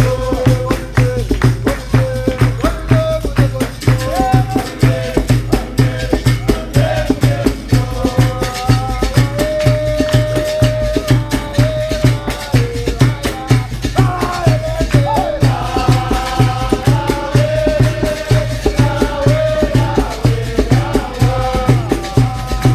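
Capoeira roda music: a steady drum beat about twice a second under shaken rattles of the berimbaus' caxixi and other percussion, with singing over it.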